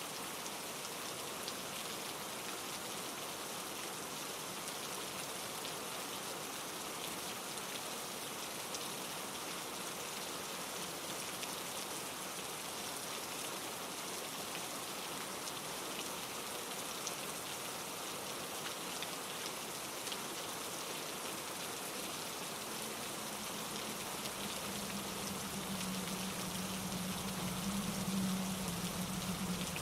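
Steady rain falling through trees onto leaves and pine needles: a dense, even patter of drops. In the last several seconds a low rumble builds underneath it.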